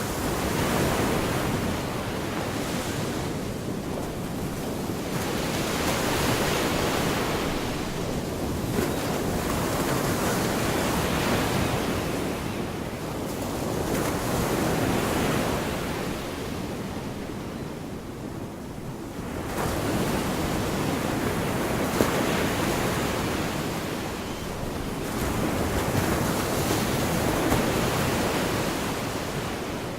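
Gulf of Mexico surf: small waves breaking and washing up the beach, the sound swelling and easing every four to five seconds.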